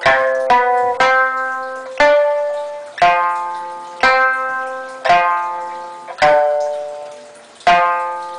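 Old sanshin, re-covered with a single layer of skin on its top face only, plucked one note at a time in a slow melody, about a note a second. Each note has a sharp attack and a long ringing fade with a clean tone; the last note is plucked near the end and left to ring.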